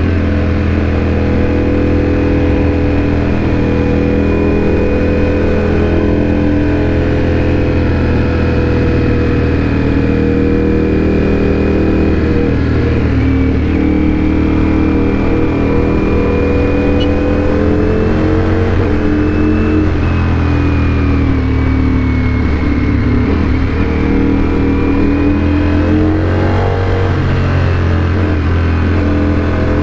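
Motorcycle engine running under way, its revs rising and falling gently and steadily with no pauses.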